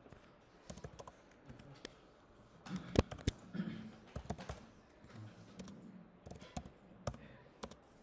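Typing on a computer keyboard: irregular keystrokes with short pauses, the loudest run of keys about three seconds in.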